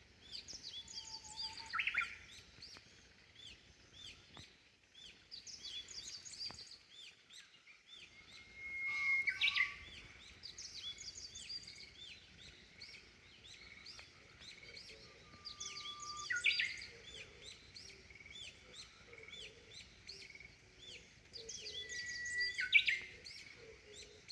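Wild songbirds singing together at dawn, with many quick overlapping chirps. One louder song repeats four times, about every seven seconds, each a long held whistle that ends in a sharp, quick phrase.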